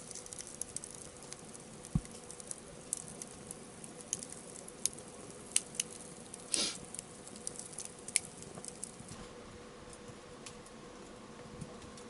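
Wood campfire crackling: scattered sharp pops and snaps at irregular intervals over a faint hiss.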